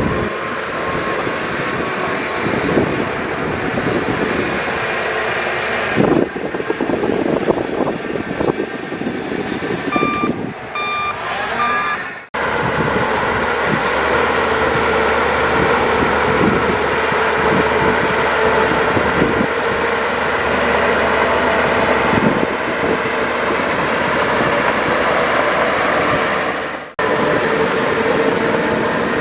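Diesel engines of a dump truck and bulldozer running under load, with clattering and clanking from about six seconds in. A reversing alarm beeps three times, then the sound cuts off abruptly.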